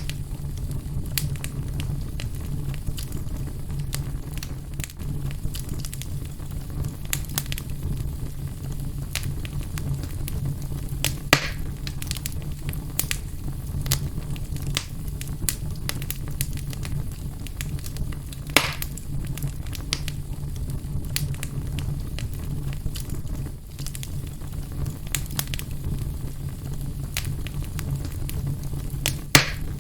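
Wood fire burning in a fireplace: a steady low rumble of flames with frequent small crackles and three louder, sharp pops spaced several seconds apart.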